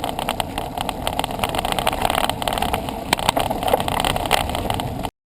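Wind rushing over the microphone with rumbling road noise from a moving bicycle, a steady crackling rumble. It cuts off suddenly about five seconds in.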